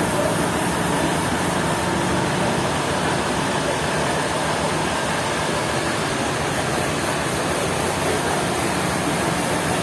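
Sawmill machinery running steadily: a loud, even noise with a low motor hum underneath.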